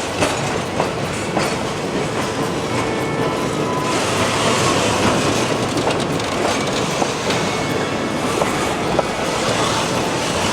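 Passenger cars of a Great Smoky Mountains Railroad excursion train rolling past, with a steady rumble and wheels clicking over the rail joints.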